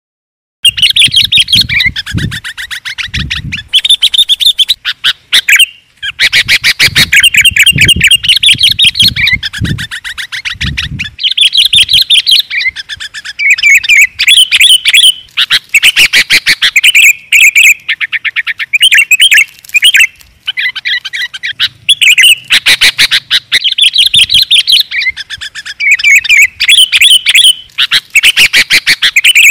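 Sooty-headed bulbul (kutilang) calling loudly in dense, rapid chirping phrases with only brief pauses. It is a lure and master recording of the species' calls.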